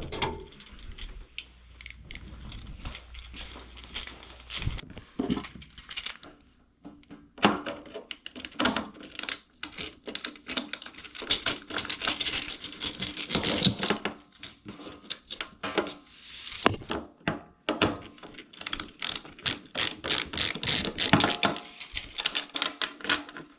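Dense, irregular metal clicks, rattles and knocks of hand work with a 1/4-inch nut driver, backing out the screws that hold a washing machine's pedestal drawer. The clicking is sparse at first and turns nearly continuous after several seconds.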